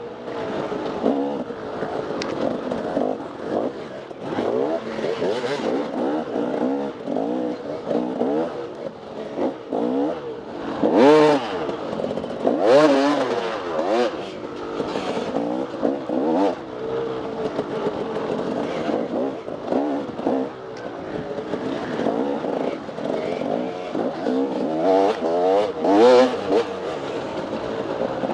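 Dirt bike engine revving up and down again and again as the throttle is worked on an off-road trail, with the loudest surges about 11, 13 and 26 seconds in.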